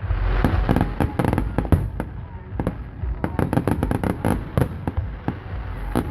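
Fireworks going off: a deep boom right at the start, then a dense run of sharp crackling pops.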